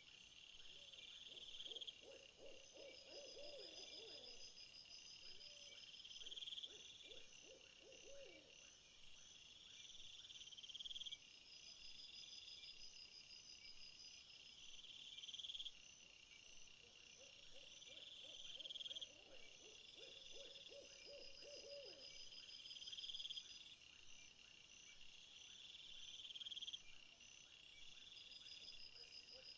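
Faint night insect chorus of crickets repeating pulsed trills every few seconds, with low wavering hoot-like calls in two bouts, about two seconds in and again past the middle.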